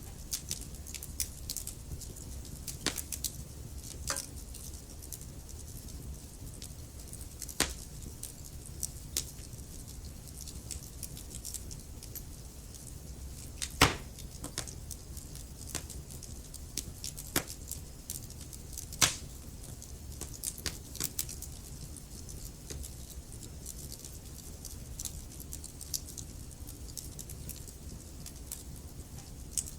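Wood fire crackling in a fireplace: irregular snaps and pops over a low steady rumble, with a few louder pops, the loudest about 14 seconds in and another about 19 seconds in.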